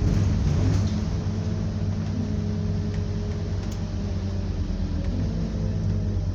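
Scania double-decker bus engine running steadily with a low drone, its pitch wavering only slightly.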